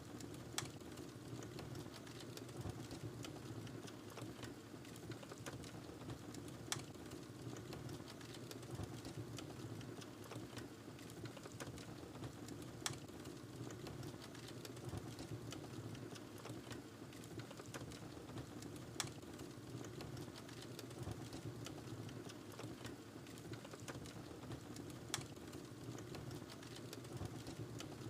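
Wood fire burning in a fireplace: a low steady rush with small crackles throughout, and a sharper pop about every six seconds.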